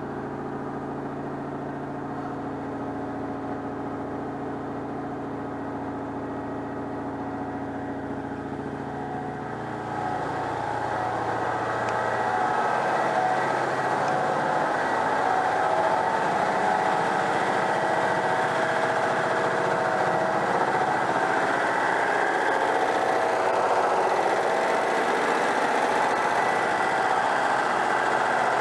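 Citroën 2CV's freshly overhauled air-cooled flat-twin engine idling steadily while it warms up, holding its idle without the choke. About ten seconds in it gets louder and harsher, then runs on steadily.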